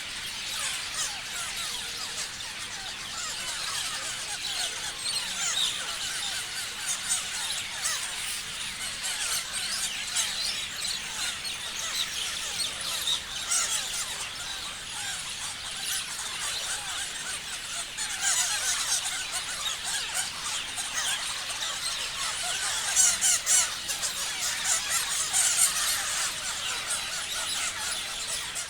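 A flock of parrots chirping, many short high calls overlapping in a dense, continuous chatter, with louder spells of calling about two-thirds of the way in and near the end.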